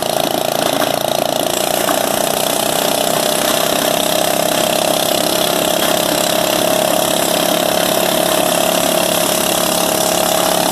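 A 20-horsepower opposed-twin engine on a riding mower, running steadily.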